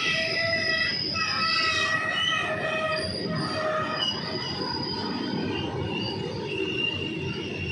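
Open-top steel freight wagons of a goods train rolling past at speed: a steady rumble of wheels on rail with several high, shifting wheel squeals over it.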